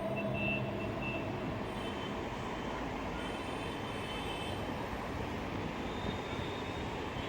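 A distant, steady rumbling drone with faint held tones, one of them dying away about a second in. It is the reported 'strange trumpet sound from the sky', heard as an echo coming from everywhere at once.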